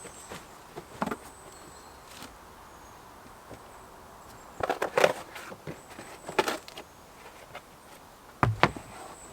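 Irregular knocks and taps, a cluster about halfway through and a stronger pair near the end, over a faint, thin, high-pitched whine that comes and goes.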